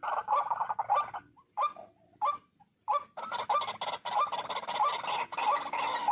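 White-breasted waterhen calling: a rapid run of repeated notes, about four a second, that thins out to a few scattered notes about a second in and picks up again at about three seconds.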